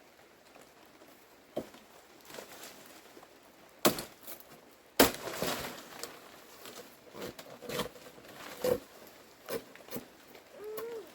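Irregular knocks and clatter: a sharp knock about four seconds in, a louder one at about five seconds, then a run of smaller knocks, with a brief high chirp near the end.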